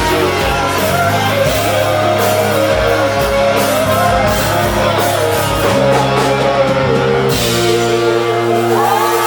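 Live rock band playing with electric guitar, bass, drum kit and singing; about seven seconds in the drums stop and held notes ring on, with the guitar bending notes toward the end.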